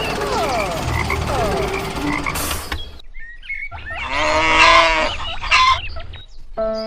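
An animal call: one loud, drawn-out call with a rich stack of harmonics, starting about four seconds in, after a stretch of noisy background with short pitch glides.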